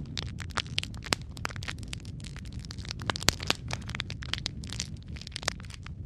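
Wood fire crackling and popping, with irregular sharp snaps over a steady low rumble of flames; one pop about a second in and another just past three seconds stand out loudest.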